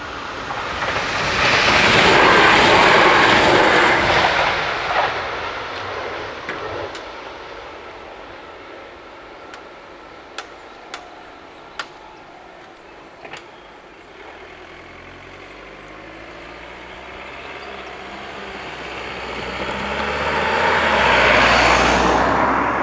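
An X52 Regina electric train passes over the level crossing in the first few seconds, a rush of wheel and air noise that swells and fades. A few sharp clicks follow as the crossing barriers go up. Near the end a car drives over the crossing and past, its engine and tyres building to a peak.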